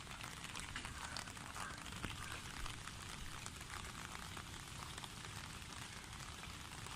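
Steady pattering and splashing of water, a dense spray of small drips and splashes with no voice over it.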